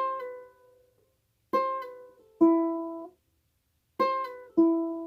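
Ukulele strummed in single chords that ring out, five in all. Twice a chord is followed a moment later by a different chord, showing the change from the 3rd fret to the 2nd.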